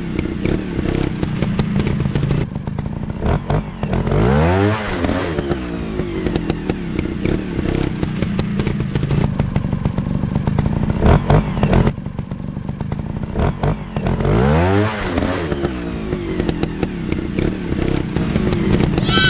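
Motocross dirt bike engines running and revving, the pitch rising and falling twice, around four and fifteen seconds in, with scattered knocks and clatter.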